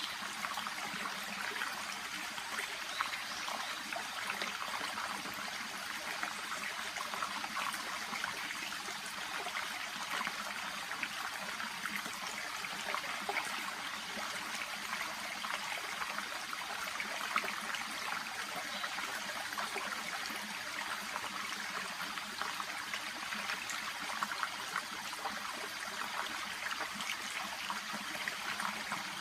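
A shallow brook babbling steadily, with many small splashes and trickles in an even, unbroken flow.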